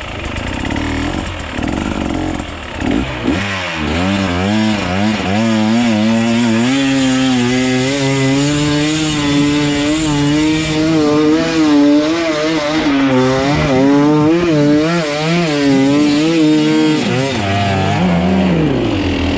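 Off-road enduro motorcycle engine revving up and down constantly while being ridden. The pitch climbs about three seconds in, wavers through the middle, and falls away near the end.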